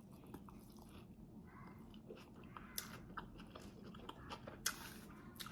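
Faint chewing of a mouthful of birria taco, with scattered short mouth clicks and smacks, the sharpest about three seconds in and near the end.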